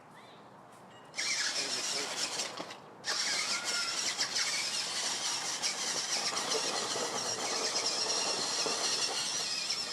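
Radio-controlled toy monster truck's electric motor whining as it drives, reversing after a crash. The high-pitched whine starts about a second in, cuts out briefly around three seconds, then runs on steadily.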